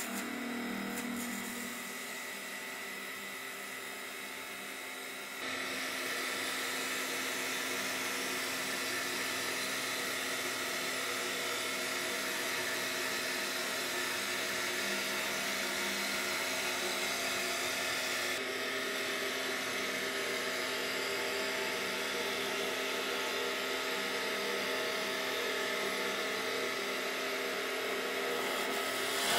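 CNC wood lathe running, turning a baseball bat, with a steady high mechanical whine; it grows louder about five seconds in and its tone shifts about two-thirds of the way through.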